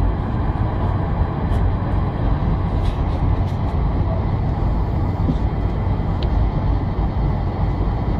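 Boeing 747 heard from inside the passenger cabin: a steady, loud rumble of engines and airflow, with faint clicks and rattles now and then.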